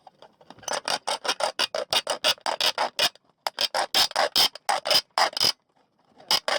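Quick back-and-forth strokes of a hand tool cutting through metal on a van's exhaust, a harsh high-pitched rasp at about five strokes a second, stopping briefly twice.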